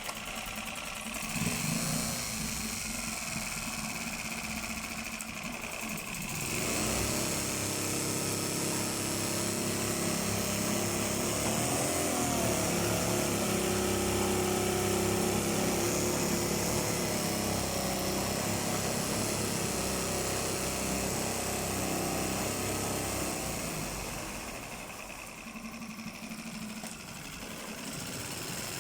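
Suzuki DF5 single-cylinder four-stroke outboard motor running, throttled up about six seconds in and eased back down near the end.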